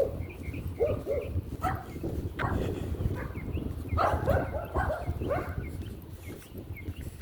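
Short animal calls, repeated irregularly and bunched about four to five seconds in, over a steady low rumble.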